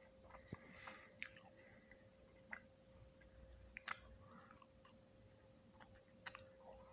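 Chewing a crunchy chocolate chip cookie close to the microphone: faint scattered crunches and mouth clicks, with sharper bites about four and six seconds in, over a faint steady hum.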